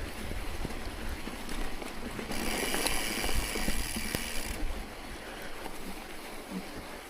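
A vehicle driving through snow, with a steady low rumble and wind buffeting the microphone. A brighter hiss rises for about two seconds in the middle.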